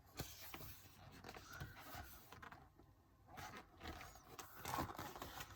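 Faint rustling and scraping of paper: photobook pages being handled and turned.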